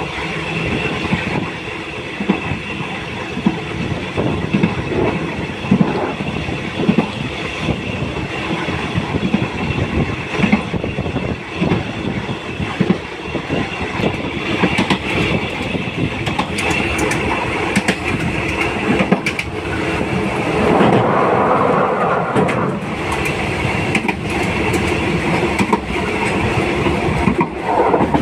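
Train running on steel rails, heard from on board: a steady rumble with repeated wheel clicks over rail joints. It swells louder for a couple of seconds about two-thirds of the way through.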